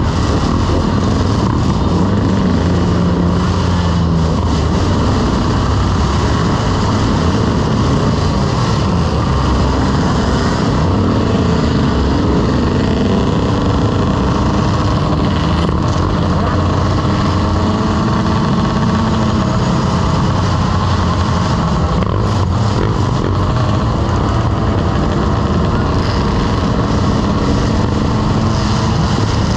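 Motorcycle engine running steadily while riding, mixed with a dense rush of road noise.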